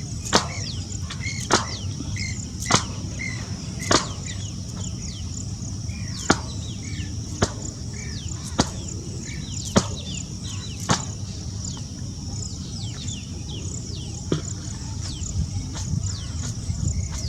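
Sharp single clicks repeating about every 1.2 seconds, ten or so in all, thinning out after about eleven seconds. Behind them runs a steady high chirring chorus of insects, with small bird chirps.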